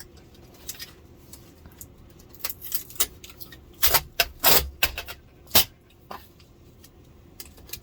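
Scattered clicks, taps and a few sharper knocks as parts of an LCD TV's backlight assembly are handled and pried at, the loudest knocks coming about four and a half and five and a half seconds in.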